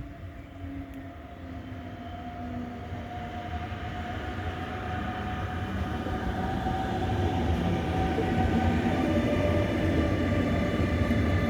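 Train approaching on the line, a low rumble with several steady tones over it, growing steadily louder.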